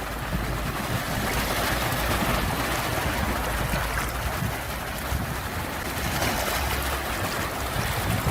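Sea waves washing in, a steady rushing with a low rumble that swells and eases gently.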